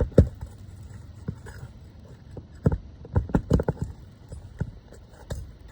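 Sharp knocks and clacks of a roof snake, a metal shingle-removal tool, worked under asphalt shingles to pry roofing nails out of the deck: one strike near the start, a quick run of four or five about three seconds in, and another near the end.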